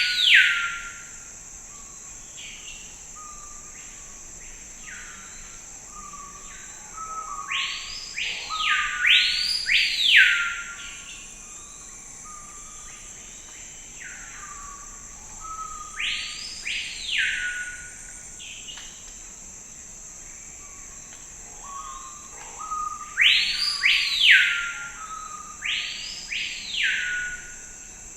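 Forest birdsong: a bird gives loud whistled notes that rise briefly and then sweep down in pitch, mostly in pairs, about every eight seconds, with softer short calls in between. A steady high-pitched hiss runs underneath.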